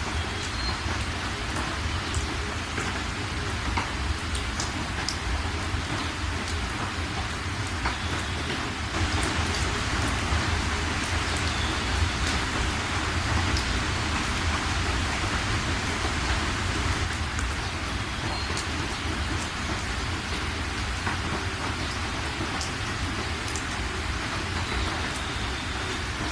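Steady rain falling, with single drops striking close by as sharp ticks. The rain grows a little heavier about a third of the way in, then eases again.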